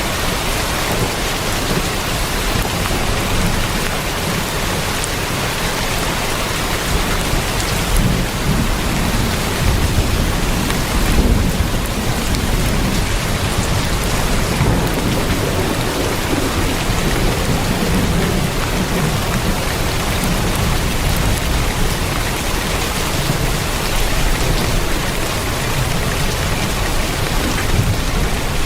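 Heavy rain drumming steadily on a tin roof, with a steady low rumble beneath the patter.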